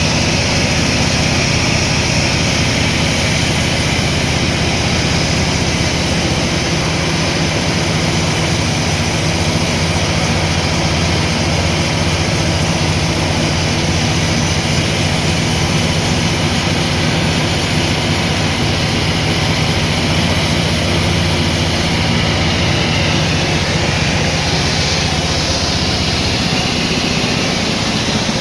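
Sawmill machinery running with a loud, steady mechanical noise.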